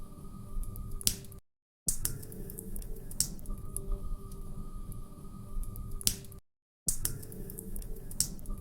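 Wood fire crackling in a fireplace, with irregular sharp pops over a low steady rumble. The sound drops out completely twice, for about half a second each time.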